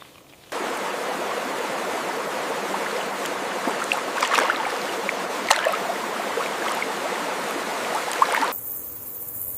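Flowing water running steadily with small splashes and gurgles, coming in suddenly about half a second in. It cuts off near the end, where a high, steady insect drone takes over.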